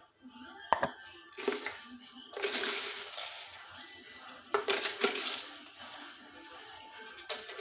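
Background music with clinks and scraping noises from kitchen utensils and cups while kahwa is being prepared. There are a few sharp clicks, then longer rustling, scraping stretches.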